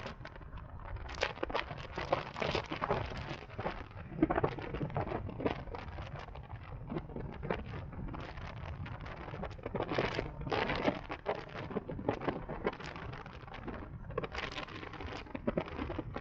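Wind buffeting the microphone in irregular crackling gusts over a low road rumble while riding a CSC Zongshen RX1e electric motorcycle, with no engine sound to speak of.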